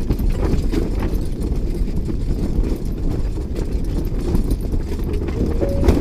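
Strong gusting wind buffeting the microphone: a heavy, uneven low rumble.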